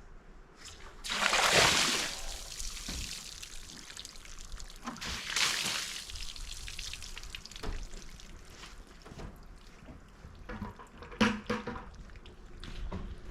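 Water being put onto freshly sawn English walnut slabs to wet them and bring out the grain, in two main bursts, one about a second in and a shorter one about five seconds in, with a few light knocks later.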